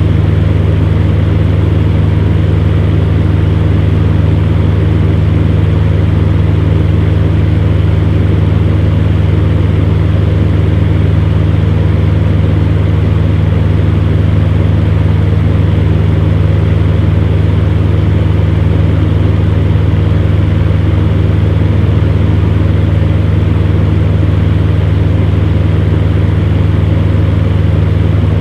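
Electric fan heater running: a steady low hum with an even rush of air, unchanging throughout.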